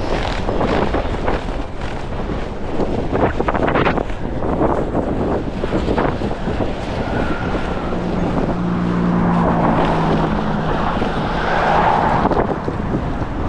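Strong gusty wind buffeting the microphone throughout. Partway through, a vehicle passes on the road: a steady low engine hum, then a swell of tyre noise a few seconds later.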